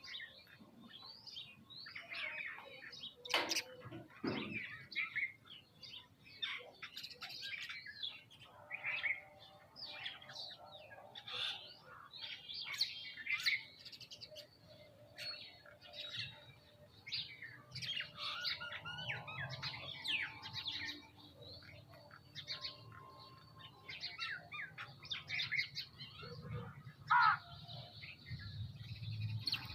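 Several birds chirping and calling over one another in quick, overlapping short notes, with a couple of sharp knocks about three to four seconds in.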